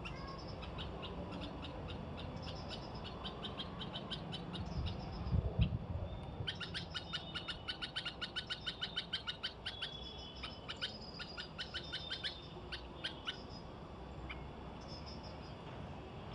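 Sparrows chirping: a string of short, repeated chirps that turns into a fast, dense run of chirping for a few seconds midway. A low thump comes about five seconds in.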